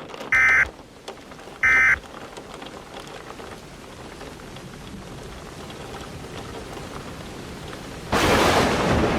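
Emergency Alert System end-of-message data bursts: short, loud, buzzy digital tone bursts, the last two of a set of three spaced about a second apart. Then steady rain that slowly grows louder, and a sudden loud crash of thunder about eight seconds in.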